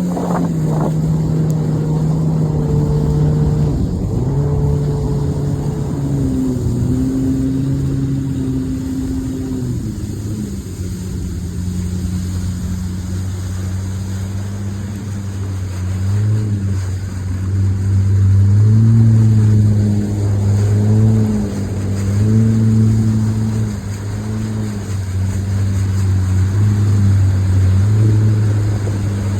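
Pontoon boat's motor running, its pitch holding for a few seconds at a time and then sliding up or down as the throttle changes.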